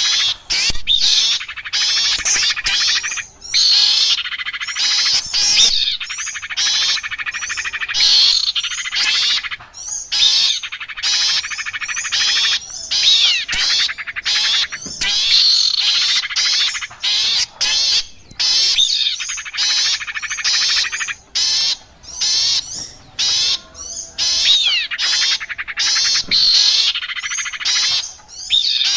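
Recorded bird-lure call of small songbirds, the sirpu, sirtu and cipoh (iora) types that bird trappers call in: fast, high-pitched chattering and twittering with quick trills, in bursts of a second or three separated by short breaks.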